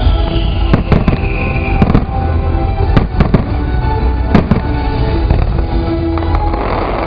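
Fireworks going off with several sharp bangs: a couple about a second in, two close together near three seconds and one near four and a half seconds. Show music plays loudly underneath throughout.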